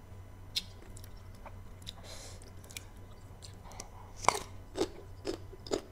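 Crisp biting and crunchy chewing of unripe green mango slices: a few faint clicks at first, then a loud crunch a little past four seconds in, followed by chewing crunches about twice a second.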